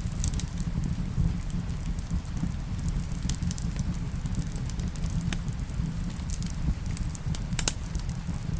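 Wood fire crackling, with scattered sharp pops over a steady low rumble and a soft rain hiss.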